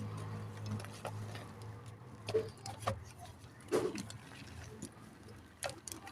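Dry clay mud cake being crumbled: a handful of sharp crunches and cracks, spread out irregularly, over a low steady hum.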